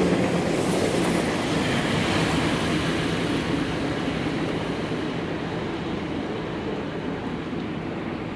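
Electric train passing on the line beside the station, a steady rumble of wheels and motors that slowly fades as it moves away, the hiss dropping out over the last few seconds.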